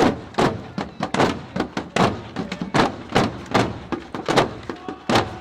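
Marching drums pounding out a steady beat of about two to three hits a second, with lighter strokes between.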